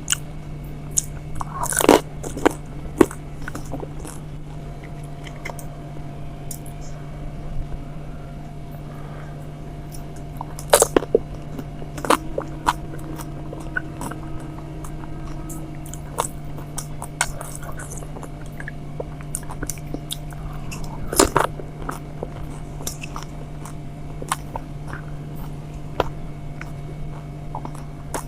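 A person eating golgappa (pani puri): the crisp hollow puris crunching and cracking between the teeth, with wet chewing in between and a few louder crunches spaced several seconds apart, over a steady low hum.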